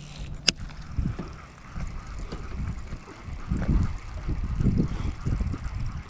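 Wind buffeting the microphone in uneven gusts, a low rumble, with one sharp click about half a second in.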